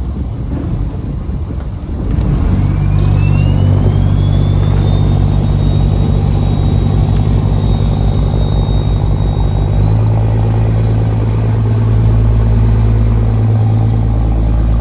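A fishing trawler's diesel engine is throttled up about two seconds in and then runs hard and steady, with a high whine that rises and then holds. The engine note shifts again around ten seconds in.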